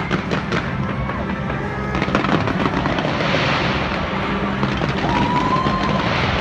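Fireworks display going off in rapid bangs, with a spell of dense crackling about three seconds in, over music playing throughout.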